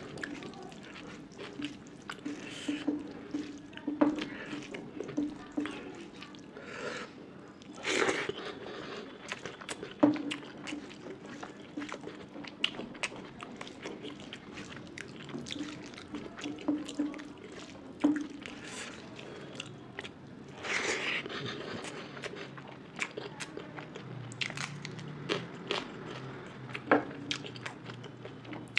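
Close-up chewing and crunching of food, with many small wet mouth clicks and a few louder crunches.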